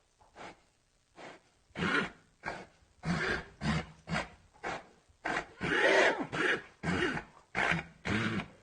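A horse snorting and blowing in a quick run of short, breathy bursts, about two a second. They are faint at first and louder from about two seconds in.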